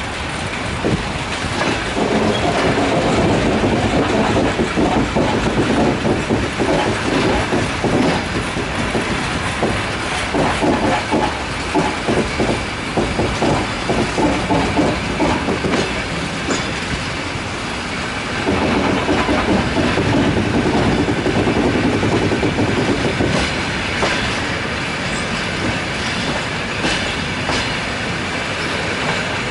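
Passenger train wagon running on the rails, heard from aboard, its wheels clattering over rail joints in quick runs of clicks. About two-thirds of the way through, the clatter gives way to a steadier rumble, with separate clicks returning near the end.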